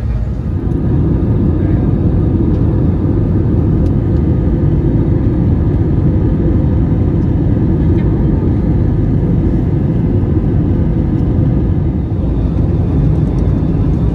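Steady low rumble of an Airbus A321-200's engines and airflow heard inside the cabin on final approach, louder from about a second in.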